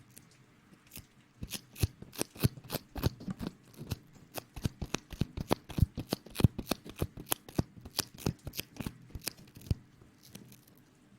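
A fast, uneven run of crisp clicks or taps close to the microphone, several a second, starting about a second and a half in and stopping near the end.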